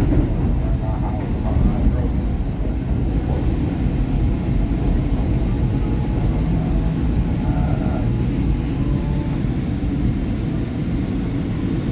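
Market-Frankford Line M-4 subway-elevated car running on the rails, heard from inside: a steady, heavy rumble of wheels and traction motors as the train comes into a station.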